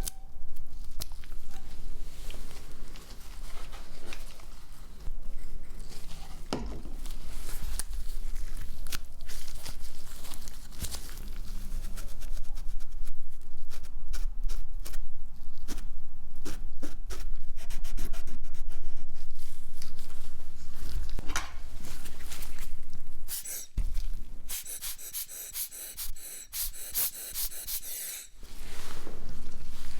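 Close-up handling noise: many small clicks and scrapes over a steady low hum, busiest in the middle, with an evenly repeating high rustle for a few seconds near the end.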